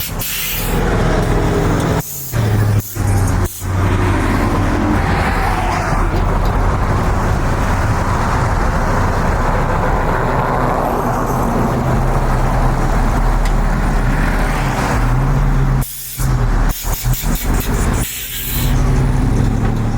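A car's engine held at high revs under a loud, steady rush of noise, typical of a burnout. The sound cuts out sharply for short moments a few times, about two seconds in and again near the end.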